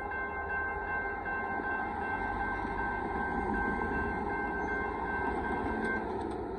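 Amtrak Texas Eagle passenger train rolling past with a steady rumble of wheels on rail. A high ringing tone pulses about twice a second over it and stops about six seconds in.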